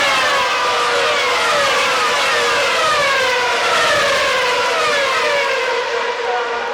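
A stream of Formula One cars with 2.4-litre V8 engines passing at high revs: many overlapping high whines, each falling in pitch as a car goes by. The sound begins to fade near the end.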